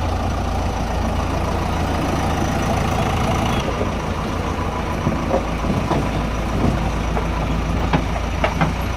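Heavy diesel engine running steadily, with several short knocks and clanks in the second half.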